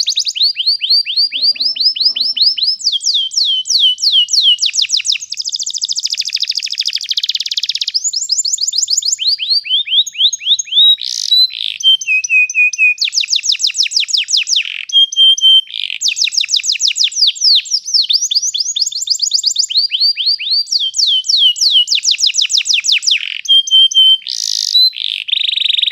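Domestic canary singing continuously in long rolling trills: fast runs of repeated chirps, each run switching to a new note pattern every second or two.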